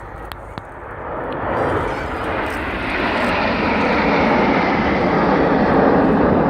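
Jet noise of a formation of BAE Hawk T1 jets with Adour turbofan engines passing overhead, swelling steadily louder from about a second in and then holding loud and steady.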